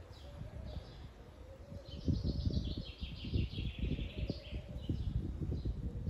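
Small birds chirping and twittering, with a longer run of rapid chirps about two seconds in, over a constant low rumbling noise.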